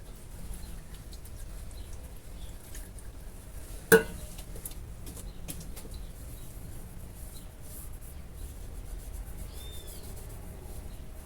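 One sharp knock about four seconds in, over faint rubbing and scattered small clicks.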